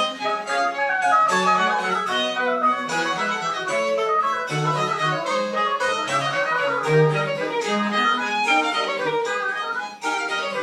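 French Baroque chamber music played live, led by violin, in quick running notes over a lower bass line. The playing eases briefly about ten seconds in before going on.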